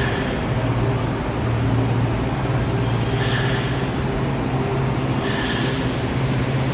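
Washington Metro (WMATA) subway train pulling into an underground station and slowing to a stop. It makes a steady rolling rumble with a low motor hum, and brief higher-pitched sounds come about three and five seconds in.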